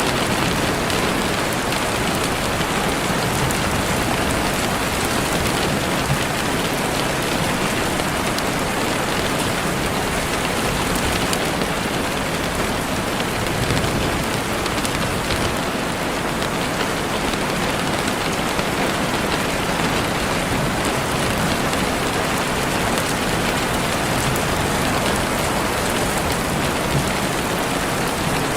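Heavy rain falling steadily on leaves and the forest floor: a dense, even hiss of many drops with no let-up.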